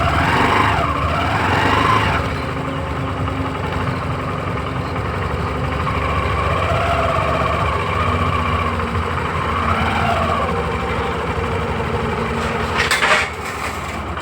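Tractor engine running, its pitch rising and falling as the revs change, with a brief loud burst of noise near the end.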